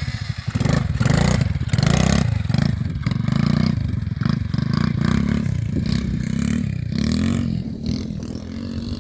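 Radio-controlled quad bike driving over rough ground: its motor surges up and down in repeated bursts of throttle, with scraping and clattering from the wheels and chassis.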